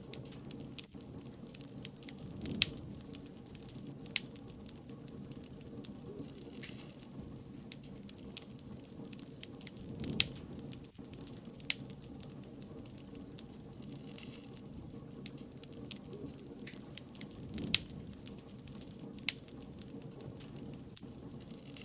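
Wood bonfire crackling: a steady low hiss of burning with frequent sharp pops and snaps, a few much louder than the rest.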